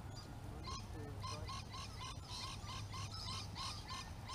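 A bird calling in a fast repeated series of short calls, about four a second, starting about a second in.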